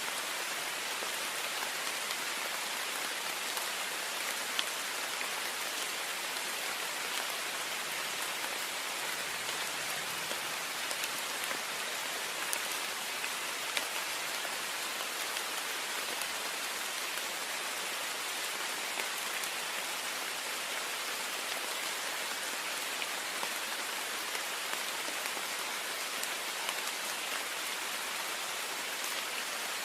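Heavy rain falling steadily on a window pane: a dense even hiss with scattered sharper drop ticks.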